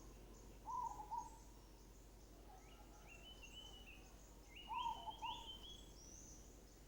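Faint birds calling: a lower call about a second in and again about five seconds in, with higher chirping phrases between and after, and faint high twittering throughout.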